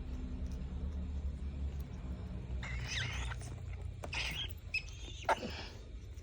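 Several short, high squeaky animal calls that bend in pitch, bunched in the second half, over a steady low hum.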